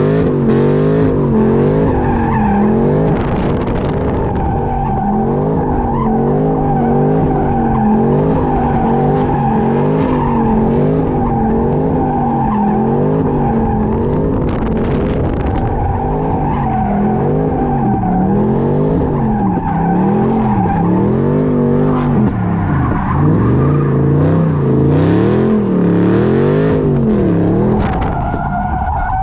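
A car engine revs up and down about once a second while its tires skid, as the car is slid around in donuts. Near the end the revs drop away.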